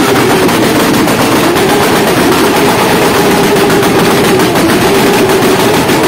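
Sport motorcycle engine held at high revs, loud and steady, with a rapid crackling from the exhaust.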